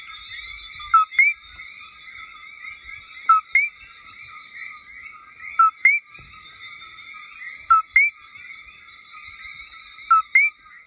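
Coquí frog calling its two-note "co-quí": a short lower "co" followed by a higher, upswept "quí", five times about every two and a half seconds. Behind it, a steady dense chorus of other frogs and insects chirping.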